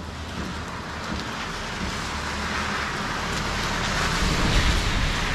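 Royal Enfield Himalayan motorcycle being ridden in wet weather: a low engine rumble under a hiss of wind and road noise that grows steadily louder.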